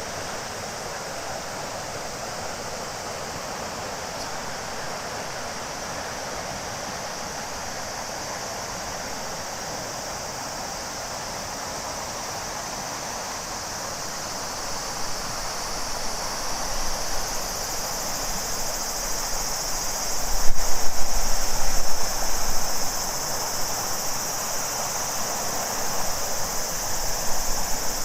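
River water flowing steadily, with a chorus of cicadas swelling in over it about halfway through and then holding. A brief low rumble joins around twenty seconds in.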